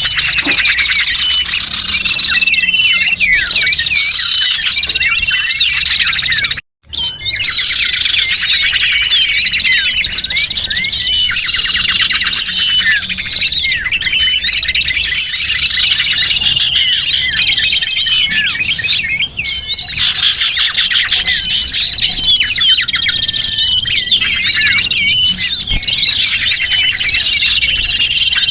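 Many small songbirds chirping and twittering over one another in a dense, continuous chorus of high, rapid notes, as used to lure small birds. The sound cuts out briefly for an instant about a quarter of the way through.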